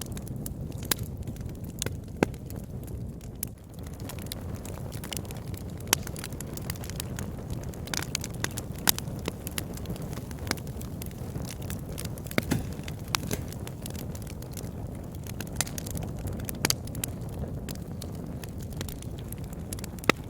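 Wood fire burning in a fireplace: a steady low rumble of the flames with irregular crackles and sharp pops, a few of them louder.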